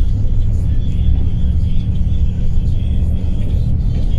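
Steady low rumble of an intercity coach on the move: engine and road noise.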